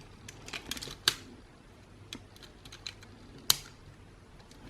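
Light plastic clicks and taps as small parts of an Xbox One controller are handled and pried loose: a quick run of clicks in the first second or so, then sparse ticks and one sharper click about three and a half seconds in.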